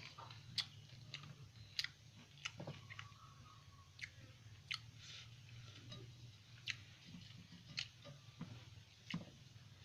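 A person chewing food close to the microphone, with sharp wet mouth smacks and clicks coming irregularly, about one every half second to a second, over a faint low hum.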